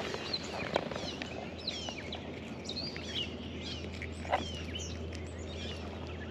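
Birds chirping around the water: many short, quick chirps, several a second. A single soft knock about four seconds in.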